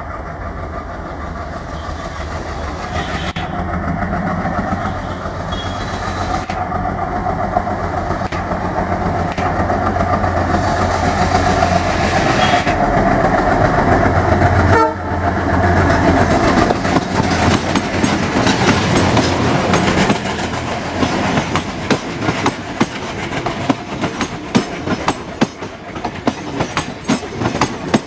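An ALCO WDM3A diesel locomotive approaches with its engine running, growing louder. Its passenger coaches then pass close by, with a fast, regular clickety-clack of wheels over rail joints.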